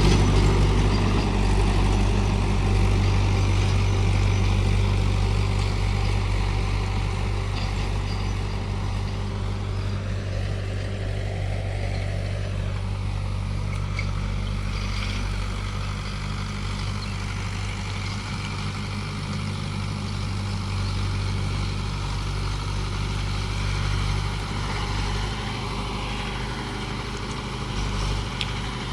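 Mahindra 575 DI XP Plus tractor's four-cylinder diesel engine running steadily, growing gradually fainter over the first several seconds and then holding level.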